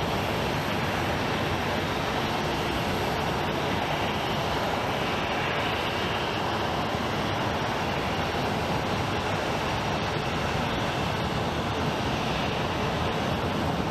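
Jet airliner engines, a steady even rush of noise.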